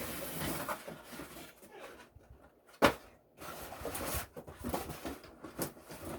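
Cardboard and plastic packaging rustling and scraping as parts are handled and lifted out of a box, with one sharp click a little under three seconds in.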